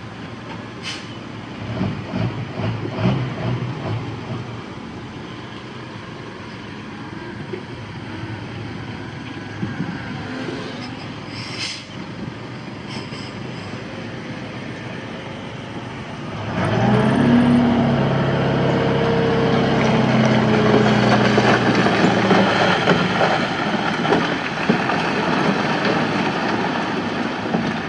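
Diesel engine of heavy machinery running, with a short high squeal near the middle; about two-thirds through, an engine revs up and runs louder under load, with a strong steady drone.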